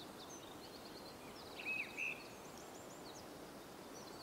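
Faint birds chirping over a low even hiss, with a quick trill and a couple of louder chirps about two seconds in.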